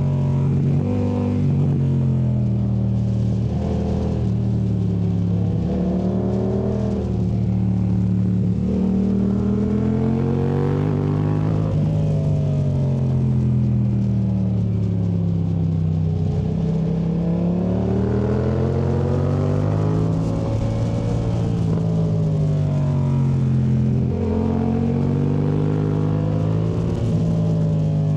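Yamaha MT07's parallel-twin engine through a Yoshimura AT2 Race exhaust, revving up and dropping off over and over every few seconds as the bike accelerates out of bends and rolls off into the next, mostly held in one gear.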